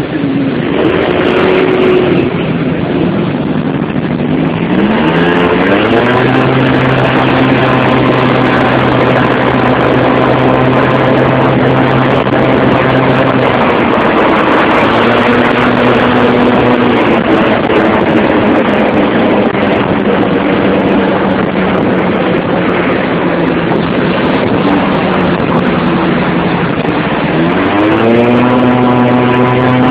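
Motorcycle engine accelerating with a rising note about five seconds in, then holding a steady pitch with a brief dip midway, and rising again near the end, over a constant rush of traffic and road noise.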